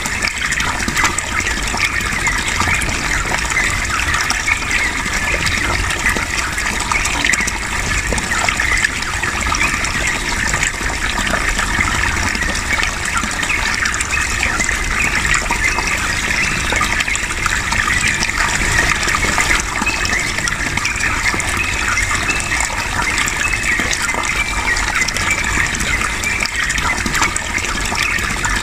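Steady rush of running water, the loudest sound throughout, mixed with the fast chattering song of a yellow-vented bulbul (trucukan).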